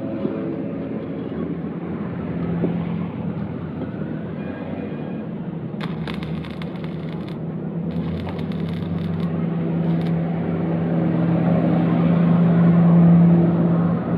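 A motor running steadily with a low hum that swells near the end, with two short spells of clattering about six and eight seconds in.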